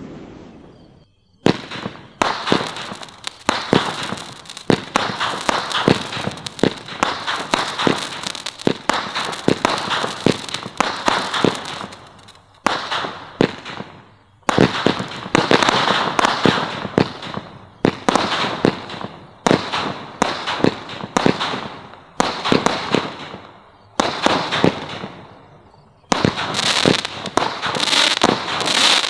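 Consumer fireworks from the Brothers Pyrotechnics 'Gas Money' assortment firing: rapid volleys of sharp bangs and crackling shots. The shots come in dense runs, with brief lulls about 12, 14 and 24 seconds in, and they pick up again near the end.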